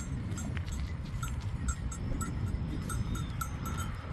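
Small bells worn by a grazing flock of livestock, clinking and ringing irregularly, many light strikes overlapping. A steady low rumble runs underneath.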